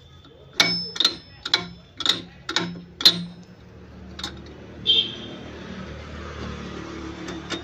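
Sharp knocks on a Ford tractor gearbox being worked on, about two a second, then a single knock and, from about five seconds in, a steady hissing noise.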